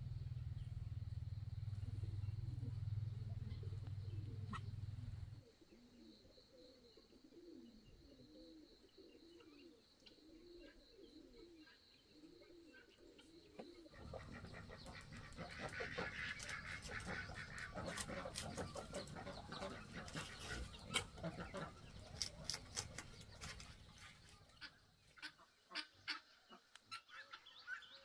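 A low steady hum for the first five seconds or so, then farm poultry calling: a regular run of low repeated calls, followed by a busier, louder stretch of many sharp calls.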